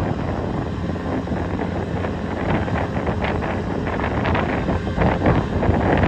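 Wind buffeting the microphone over a low, steady rumble, with gusts growing a little stronger near the end.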